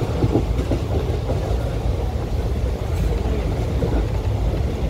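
Indian Railways ICF passenger coach running along the track at speed, heard from on board: a steady, continuous rumble of wheels and bogies on the rails, with a few faint knocks.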